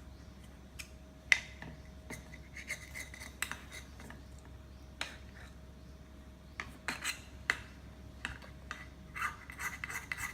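Scattered small clicks, taps and short scrapes from a baby's feeding, more of them in the second half.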